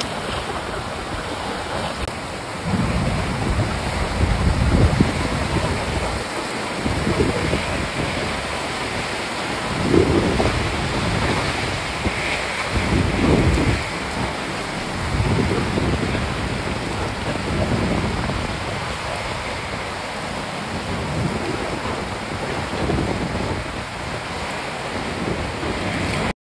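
Wind buffeting the microphone: a steady rushing noise with irregular low gusts surging every second or two.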